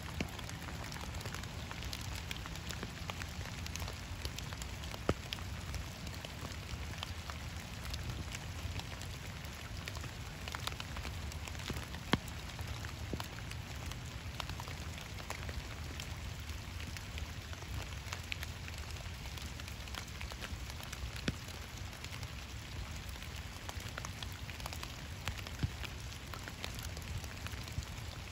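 Steady rain falling on a pond's surface: a constant patter of drops, with a few sharper single drop clicks now and then.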